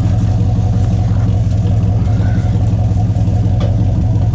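1983 Pontiac Firebird engine idling steadily through a straight-pipe exhaust with no muffler.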